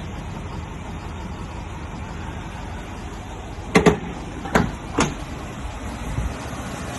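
Chevrolet C2500 pickup engine running steadily, heard from inside the cab, with three sharp knocks about four to five seconds in, the last two close together.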